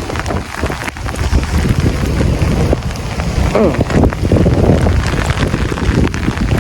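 Heavy rain falling and pattering on surfaces in a gusting storm wind, with the wind buffeting the phone's microphone in a steady, loud rumble.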